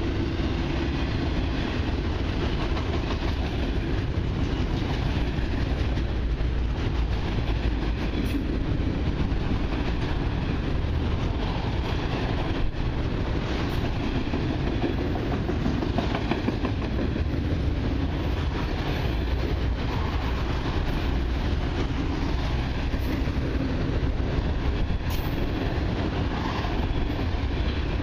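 Freight train of autorack cars rolling past close by: a steady rumble of steel wheels on rail, with the odd faint sharp click.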